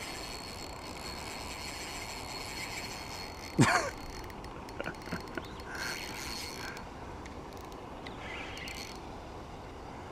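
Fishing reel winding and clicking in ratchet-like spells as a hooked pike is played. A single brief loud sound about three and a half seconds in.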